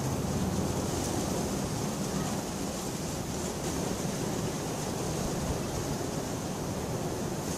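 Steady heavy rain: a dense, even hiss with a deep low rumble underneath and no distinct thunder claps.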